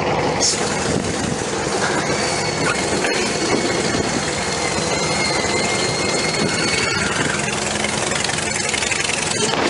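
Ride-on park train running along the track, a steady engine and wheel rumble, with a thin high-pitched squeal from about two seconds in until about seven seconds in.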